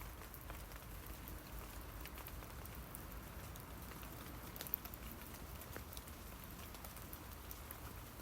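Light rain falling on tree leaves: a steady faint patter of many small drop ticks, with one louder drop about halfway through, over a low rumble.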